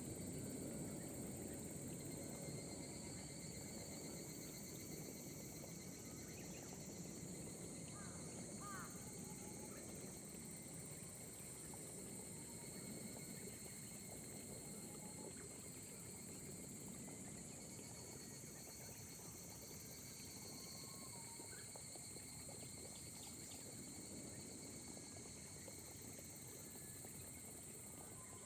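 Steady chorus of insects trilling at several high pitches over a soft, even hiss of gentle rain, with a few brief bird chirps.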